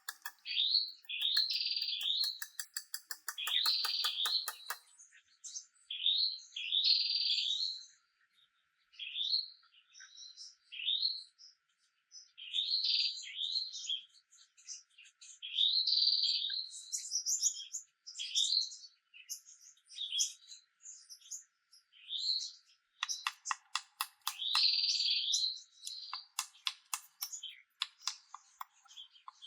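Songbird singing, repeating short chirpy phrases every second or two. Two runs of rapid clicking come through, one in the first few seconds and one near the end.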